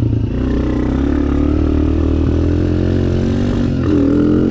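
Suzuki DR-Z125 dirt bike with a 150 big bore kit, its single-cylinder four-stroke engine running steadily at low revs while being warmed up, with small changes in pitch and a slight rise near the end.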